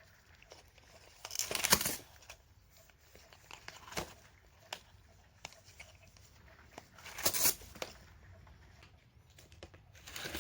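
A cat scuffling at play, with two short bursts of scratching and rustling and scattered light taps and clicks between them.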